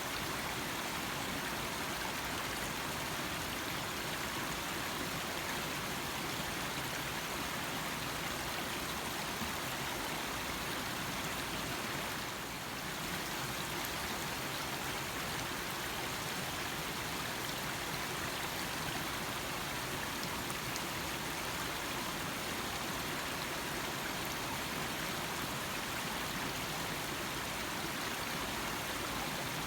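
Small stream flowing: a steady rush of running water, dipping slightly for a moment about twelve seconds in.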